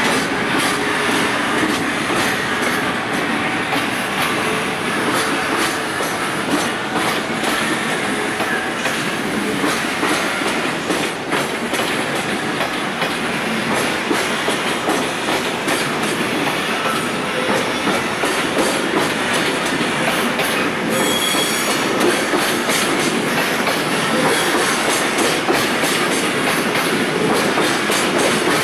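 Container wagons of a freight train rolling past slowly, wheels clicking over rail joints with a steady rumble. A brief high wheel squeal comes about three quarters of the way through.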